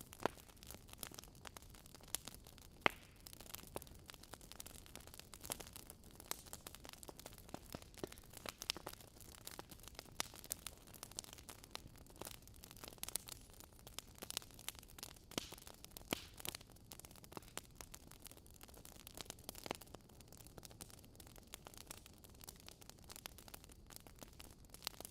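Wood logs burning in a fireplace, crackling with many irregular sharp pops over a soft steady hiss; one pop about three seconds in is louder than the rest.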